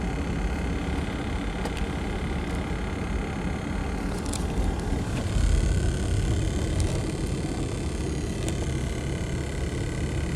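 Tour vehicle driving, its engine and road noise running steadily as heard from inside the cabin, swelling a little about halfway through.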